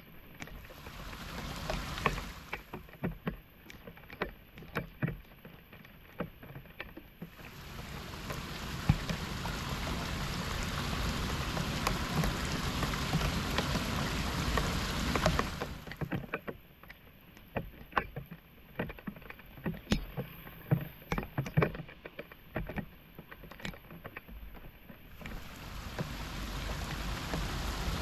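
Shallow floodwater splashing and sloshing in irregular bursts as a clogged street drain is cleared, alternating with stretches of steady rushing water.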